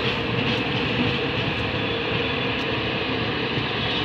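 LHB passenger train's tail coaches, including a generator power car, rolling past at low speed: a steady rumble of wheels on rail with a few faint clicks.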